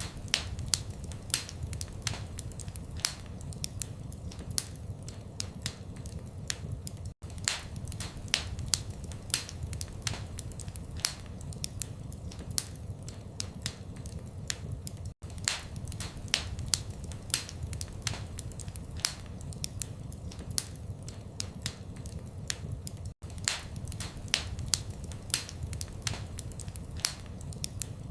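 Wood fire in a fireplace crackling: a steady low rumble of flames with sharp snaps and pops several times a second. The sound drops out briefly about every eight seconds.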